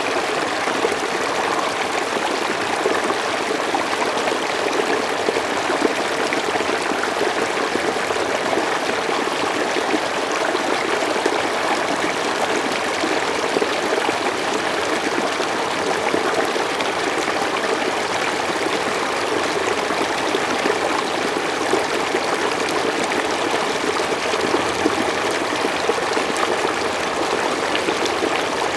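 Mountain stream flowing steadily over rocks, an even rush of water with small trickling splashes.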